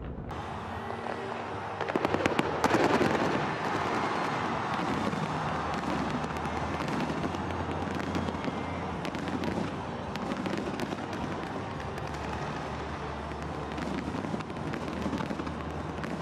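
Fireworks going off: a rapid barrage of loud bangs about two seconds in, then continuous crackling and popping with scattered bangs.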